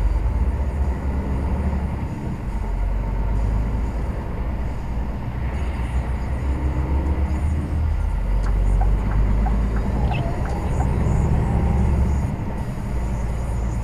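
Lorry on the move heard from inside the cab: a steady low engine and road rumble that swells and eases a little, with a few faint ticks about two-thirds of the way through.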